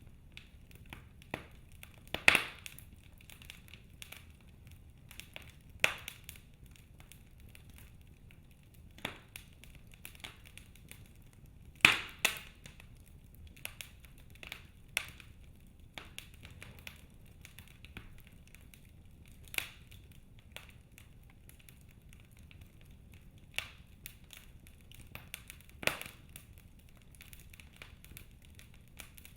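Wood fire burning in a fireplace: irregular sharp pops and snaps, a few of them loud, over a low steady hiss.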